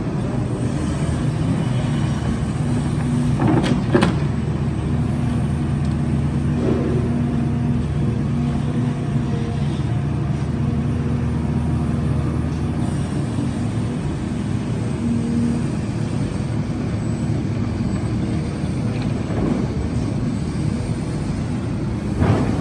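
Construction machine's diesel engine running steadily, with a few sharp knocks about four seconds in and again near the end.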